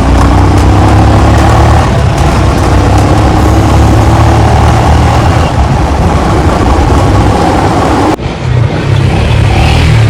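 Road vehicle engine running, with its pitch rising over the first three seconds or so as it accelerates. The sound breaks off abruptly about eight seconds in and picks up again.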